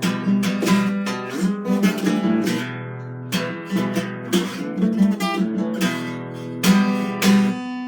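Acoustic guitar strummed in a steady rhythm between sung lines, its chords ringing between strokes.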